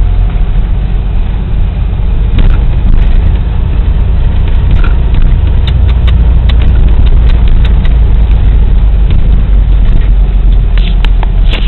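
Loud, steady low rumble of a vehicle on the move heard from inside the cab: engine and road noise, with a few small clicks and knocks.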